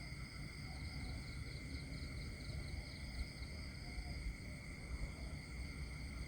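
Countryside nature ambience: a steady chorus of insects chirring at several high pitches, with one pulsing trill in the first half, over a low rumble.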